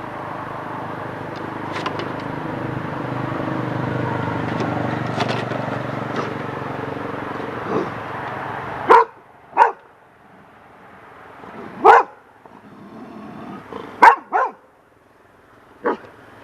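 A young golden retriever barking: about six short, sharp barks over the second half, some in quick pairs, at a feather blowing in the wind that frightens her. Before the barks, a steady rumbling noise swells and fades.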